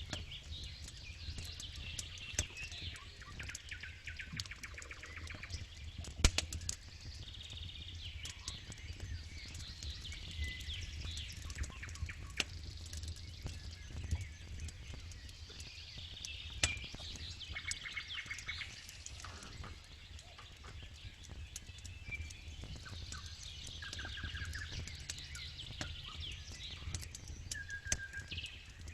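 Wood campfire crackling, with scattered sharp pops, two of them loud, about six seconds in and again midway. Small birds chirp and trill throughout, over a steady low hum.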